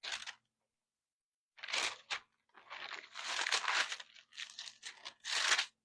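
Thin Bible pages being turned and rustled close to the microphone, in several irregular crinkling bursts, the loudest near the end.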